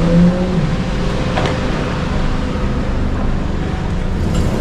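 A motor vehicle's engine running, a steady low rumble with a constant hum over it, and a single sharp click about one and a half seconds in.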